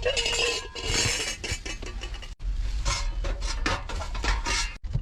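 Metal items clattering and clinking as they are handled and set down, with many irregular knocks, broken by two brief gaps.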